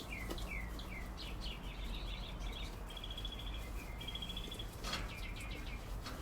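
Small birds chirping: a quick run of short falling chirps, then two rapid trills about three and four seconds in, and more chirps near the end, over a faint steady low background.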